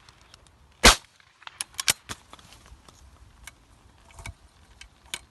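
A single shotgun shot about a second in, the loudest sound by far, followed by a scatter of much quieter sharp clicks and knocks.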